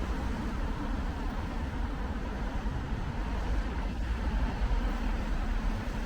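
Steady street traffic rumble with tyre noise on wet roads.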